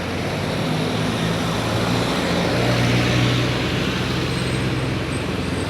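Steady hum of a motor vehicle's engine with road traffic noise, the engine note strengthening slightly partway through.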